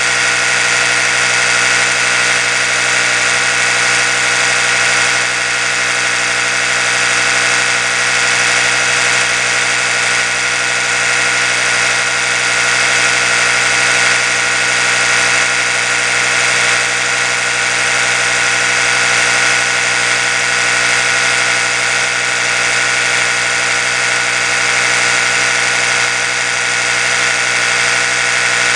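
Oral-B electric toothbrush running continuously, its motor giving a steady, unchanging hum.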